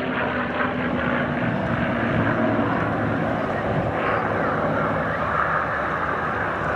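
Propeller aircraft flying over, a steady engine drone with faint gliding changes in pitch near the end.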